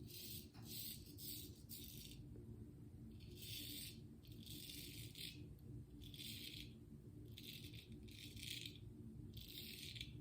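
Razor strokes scraping through lathered stubble: about a dozen short, faint scrapes, irregularly spaced.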